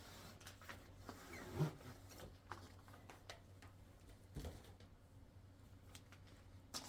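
Faint rustling and scattered light clicks from the contents of a diamond-painting kit being handled, with a soft knock about four and a half seconds in.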